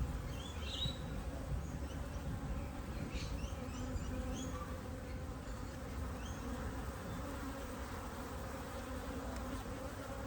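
Honeybees buzzing in a steady mass hum around an opened top bar hive. The buzz carries a raised tone, which the beekeeper takes for the bees reacting to rough handling.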